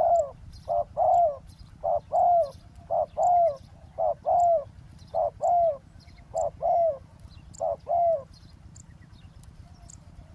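Spotted dove cooing: a steady run of two-note coos, a short note followed by a longer one, about one phrase a second, stopping about eight seconds in. Faint high chirps of small birds sound above it.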